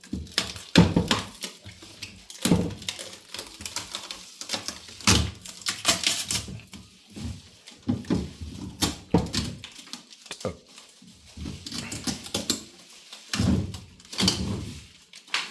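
Irregular knocks, thumps and scraping from handling packaging while unwrapping a new fridge, in a small room.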